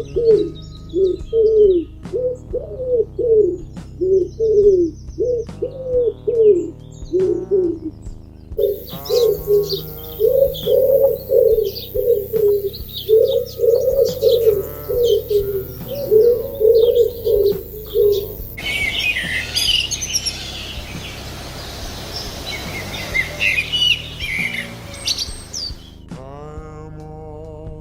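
Pigeons cooing in repeated low phrases. About two-thirds of the way in, this gives way to small birds chirping over a steady hiss.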